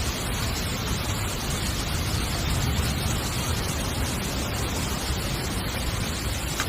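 Heavy rain falling on a tent, a dense, steady hiss with no breaks.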